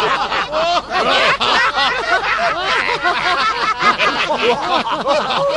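Many voices chattering and laughing over one another at once: the hubbub of a crowd at a party.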